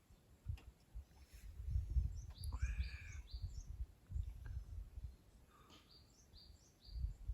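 Small birds singing: series of short, high notes that slide downward, repeated at a quick, even pace, with one louder call about two and a half seconds in. An intermittent low rumble runs underneath.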